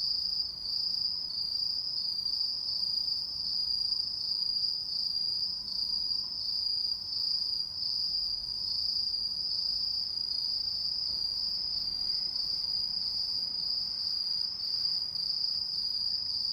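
Autumn insects singing in a continuous, high-pitched, steady trill.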